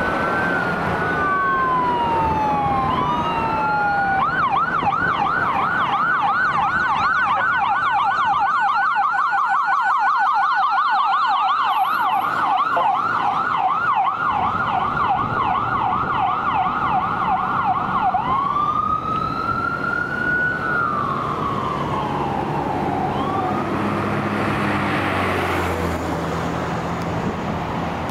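Electronic sirens of emergency vehicles responding code 3. They start in a slow rising and falling wail, switch to a fast yelp about four seconds in, return to the slow wail after about fourteen seconds, and fade near the end.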